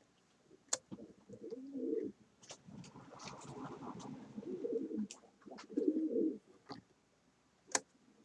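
A bird cooing in a series of short, wavering calls, with a few sharp clicks in between.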